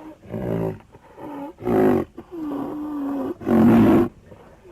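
Domestic goat bleating: four calls, the third held for about a second on a steady pitch and the last the loudest.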